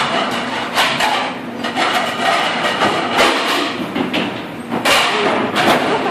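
Dishes and plates knocked and clattered against one another and a stainless-steel counter in a commercial kitchen dish station, with sharp irregular strikes about once a second over a steady clatter.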